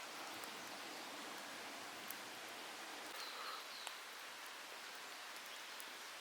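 Steady hiss of light rain falling, with a few short high notes about three seconds in.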